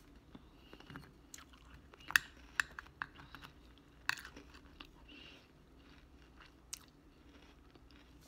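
Close-up mouth sounds of a person eating a spoonful of melted cookies and cream ice cream: wet chewing and lip smacks with scattered sharp clicks, the loudest about two and four seconds in.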